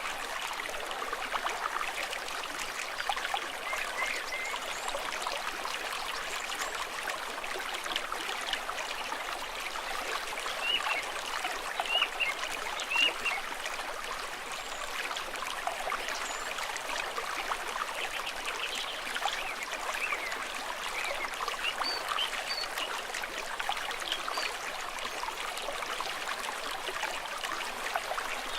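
A small stream trickling steadily, with many small splashes and a couple of slightly louder splashes about twelve and thirteen seconds in.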